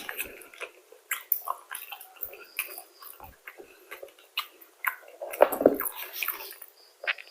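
Close-up eating sounds: chewing and biting into crispy fast food, a run of short crunchy clicks with a louder, fuller bite about five and a half seconds in.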